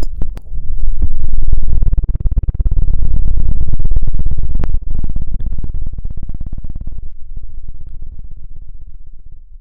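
A deep, loud rumble with a fast, even flutter, swelling up about a second in and then fading away over the last few seconds, with a few sharp clicks near the start.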